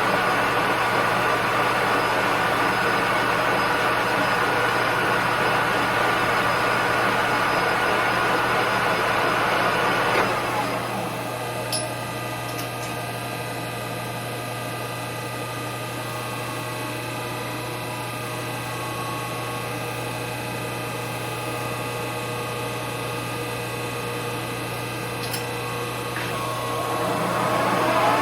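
Lathe's electric motor running steadily while turning plastic spacers. About ten seconds in it slows and quietens to a lower steady hum, then speeds back up near the end, with a couple of light clicks in between.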